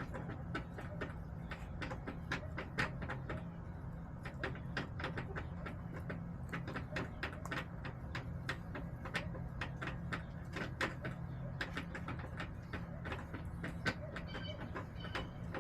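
Backyard hens pecking in the coop: rapid, irregular sharp taps and clicks over a steady low hum, with a few short high chirps near the end.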